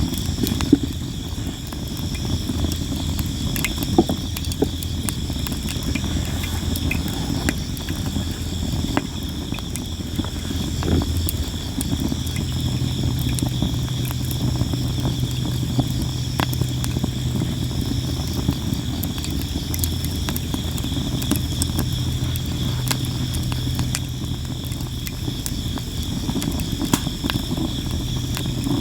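Sawara cypress wood burning in a fire pit, crackling with frequent sharp pops, the loudest about a second in and again about four seconds in. Crickets chirp steadily over it, with a low steady hum underneath.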